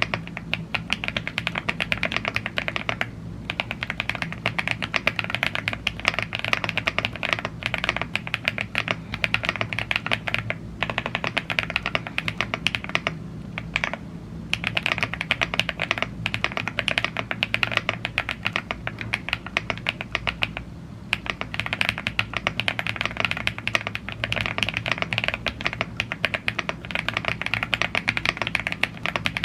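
Continuous fast typing on a YUNZII AL75 gasket-mounted aluminum mechanical keyboard with Blue Grey tactile switches and double-shot PBT keycaps: a dense run of key clacks, broken by a few short pauses, over a faint steady low hum.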